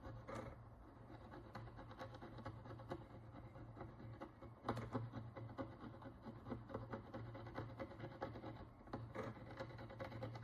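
Sharp steel needle picking and scraping the hard dirt crust off a Roman bronze coin: faint irregular scratches and small clicks, a couple of them louder, over a steady low hum.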